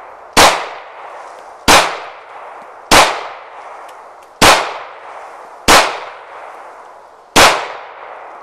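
Six pistol shots from a 9mm Kahr CM9 firing full metal jacket rounds, at a steady pace about one to one and a half seconds apart, each followed by a fading echo.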